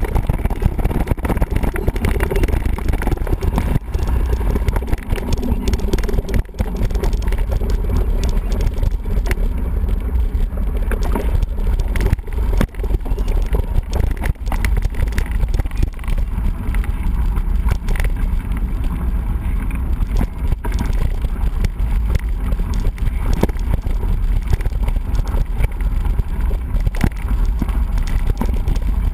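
Mountain bike being ridden: wind buffeting the microphone, with frequent rattles and knocks from the bike.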